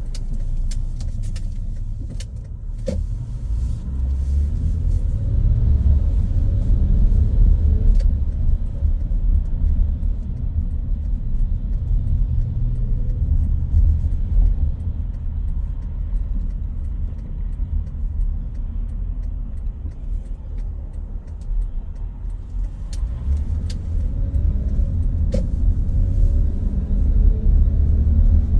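A car driving on a road: a steady low rumble of tyre and road noise with the engine under it. Faint tones rise and fall twice, a few seconds in and again near the end, with a few light clicks scattered through.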